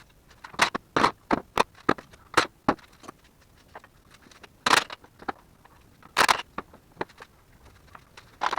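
A string of sharp, irregular clanks and knocks, about a dozen, unevenly spaced: tools and parts being handled during work on an engine being pulled.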